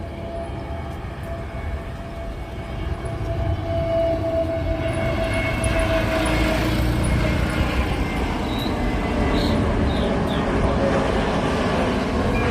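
Jet airliner engines, a steady whine over a broad roar that grows louder about three to four seconds in and then stays loud.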